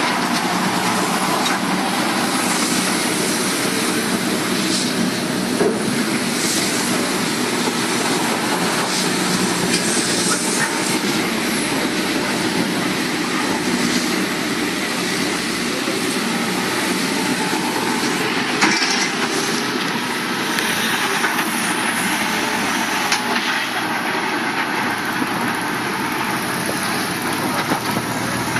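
Heavy demolition excavator working on a bridge: a steady rumble of engine and machinery with scraping and a few scattered knocks of broken concrete.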